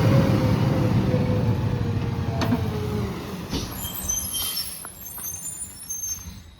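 Refuse truck running and pulling away, its engine fading over a few seconds, with a whine that slides slowly down in pitch.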